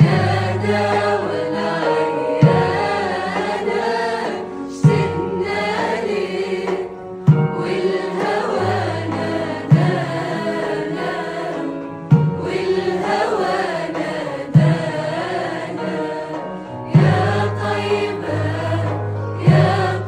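Chorus of voices singing a devotional nasheed, with a deep drum beat about every two and a half seconds under the singing.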